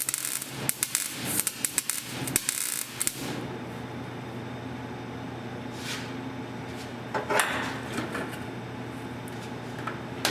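Welding arc crackling and spitting on the exhaust pipe, stopping abruptly about three seconds in. A steady low hum stays, with a couple of brief scraping or shuffling noises later on.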